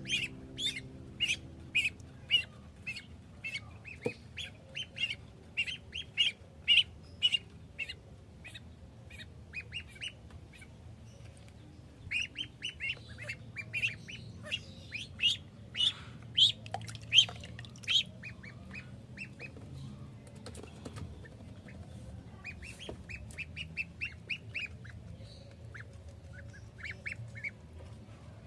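Ducklings peeping: runs of short high-pitched peeps, several a second, that ease off about ten seconds in, pick up again, then come in sparser bouts toward the end.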